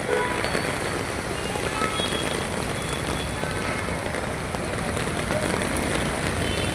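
Steady rain with road traffic: an even wash of rain noise and vehicles running on the wet road.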